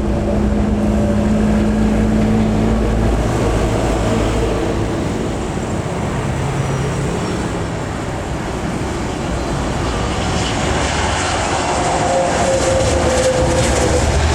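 Jet airliner engine noise, a loud continuous rush with faint tones that shift in pitch, growing brighter and louder about three-quarters of the way through.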